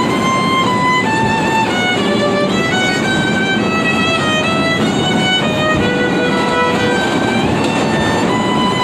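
A subway musician playing a melody of held notes that step up and down, over the steady noise of the F train running.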